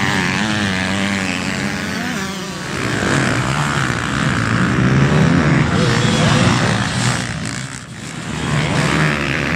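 Motocross bike engines revving hard, their pitch rising and falling as they run on the track, with a brief drop about eight seconds in.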